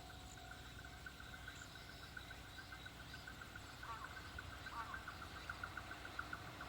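Insects chirping in a fast, repeated rhythm, growing louder in the second half, over a faint low rumble; two short falling calls sound about four and five seconds in.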